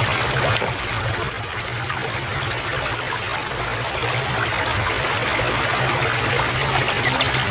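Water trickling and running steadily, as from a small stream.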